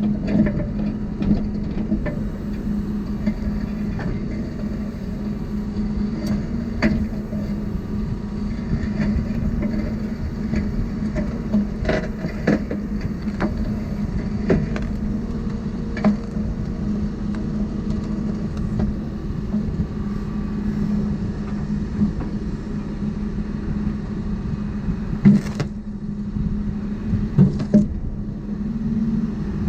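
Heavy diesel engine running steadily, with scattered metallic knocks and clanks over it.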